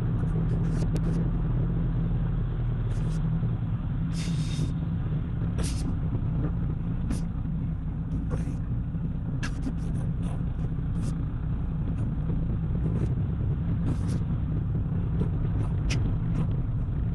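A car's steady low rumble while driving, with scattered faint clicks.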